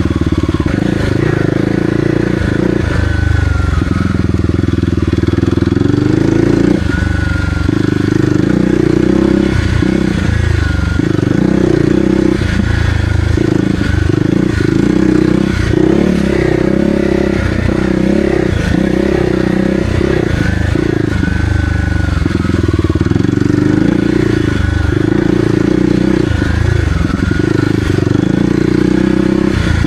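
Kawasaki KLX300R single-cylinder four-stroke dirt bike engine with an aftermarket Barker's exhaust, running under way while being ridden. Its revs rise and fall repeatedly as the throttle is opened and closed.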